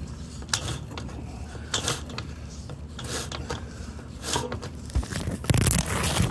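A pen scratching out short strokes while drawing a diagram, with a louder run of strokes near the end, over a steady low hum.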